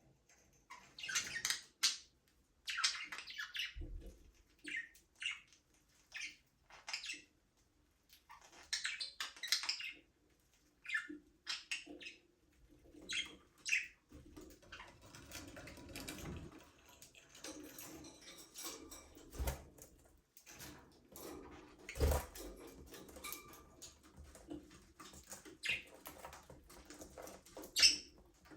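Budgerigars chirping and chattering, with short calls scattered irregularly and brief pauses between them.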